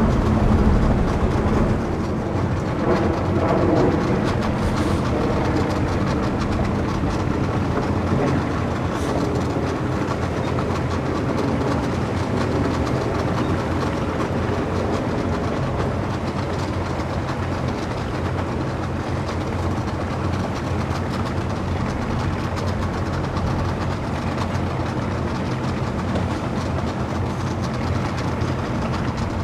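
Boat engine running steadily at low speed, a continuous low hum with some water and background noise.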